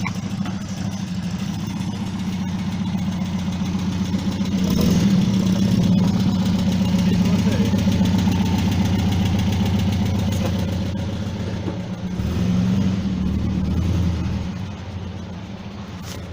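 Air-cooled Volkswagen flat-four engine running at low revs as the vehicle creeps in. It gets louder for several seconds in the middle and shifts again near the end.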